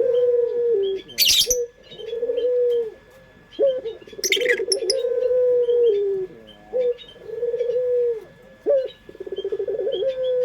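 Puter dove (Barbary dove) cooing over and over. Each phrase is a short rising note followed by a long, slightly trembling coo that drops at its end. Twice a short rustling noise cuts in, and faint high chirps sound in the background.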